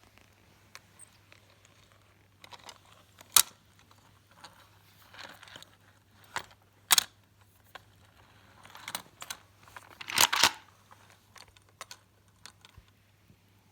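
Small plastic and die-cast toy vehicles being handled, giving scattered sharp clicks and knocks with brief rustling between. The loudest clatter comes about three-quarters of the way through.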